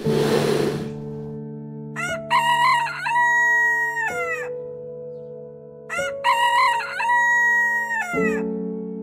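Rooster crowing twice, each crow about two seconds long, a few quick rising notes ending in a long held note, over soft piano music.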